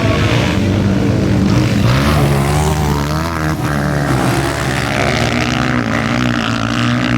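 Motocross bikes racing, their engines revving up and down as they pass.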